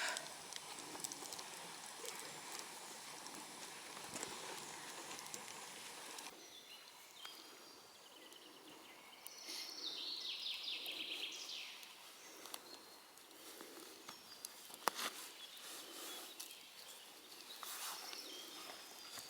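Soft footsteps on the forest floor, about one a second, with a few sharp snaps. About ten seconds in, a songbird sings a short descending trill of repeated notes. A steady hiss fills the first six seconds and cuts off abruptly.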